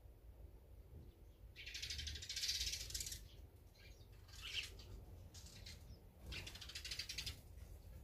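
A wild songbird giving four rapid rattling calls at the feeders, the first starting under two seconds in and the first and last each lasting about a second.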